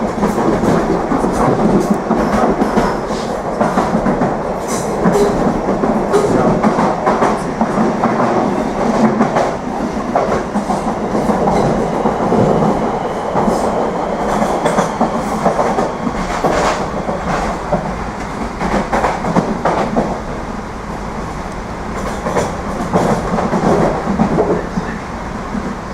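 Interior of an Irish Rail 8600 class DART electric multiple unit running along the line: a steady rumble of wheels on rail with frequent clicks over the track.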